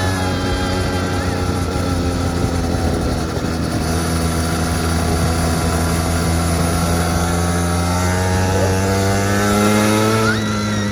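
Small petrol quad bike engine running under way, steady at first, its pitch climbing over the last few seconds as it speeds up, then dropping back near the end.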